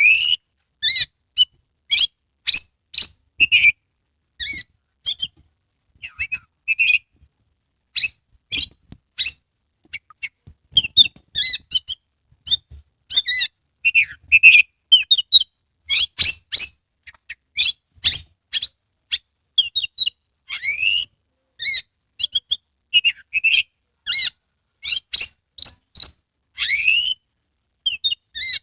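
Oriental magpie-robin (kacer) in full song: a fast, varied run of short loud whistles, chirps and pitch-sliding notes with brief pauses between phrases.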